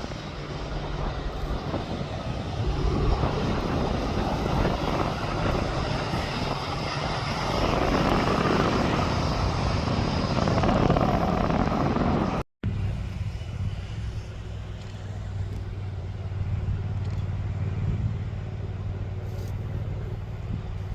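Aircraft engine noise: a broad roar builds and peaks, then cuts off abruptly about two-thirds of the way through. A quieter, steady low engine hum follows.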